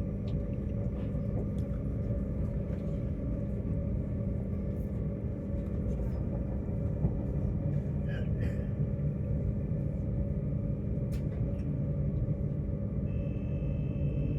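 Cabin noise of Queensland Rail's electric Tilt Train running at speed: a steady low rumble with a steady hum and scattered faint clicks.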